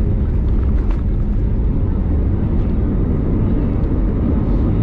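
Steady, loud, low-pitched cabin noise inside an Airbus A320neo in flight: the rumble of its engines and the rush of air past the fuselage.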